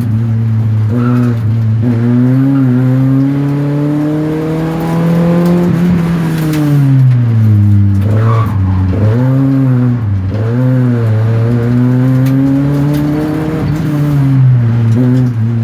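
Race car engine heard from inside the cabin, revving hard and falling back as the driver accelerates, lifts and changes gear through a slalom course. There is one long climb in pitch early on, a sharp drop about six seconds in, and then several quick dips and rises.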